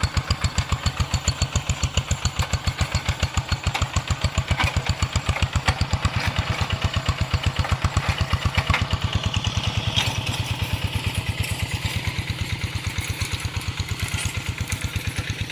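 Rice-field tractor engine running steadily with an even beat of about ten pulses a second, a little softer in the second half.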